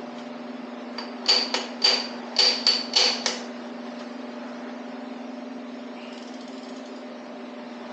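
A hammer striking metal, about seven quick ringing blows in two seconds, over a steady hum.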